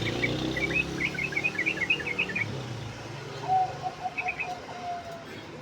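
Yellow-vented bulbul (trucuk) singing a fast, chattering run of short chirps for the first two and a half seconds, then a brief run of lower notes with a few more chirps. A low engine hum fades out during the first few seconds.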